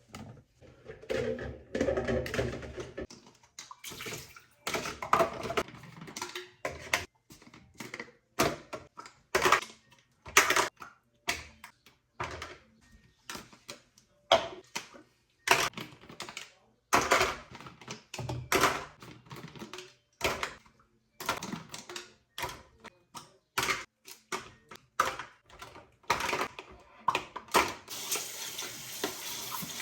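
A long run of irregular knocks, taps and clatters of objects being handled, some close together and some a second or more apart. A steady hiss starts near the end.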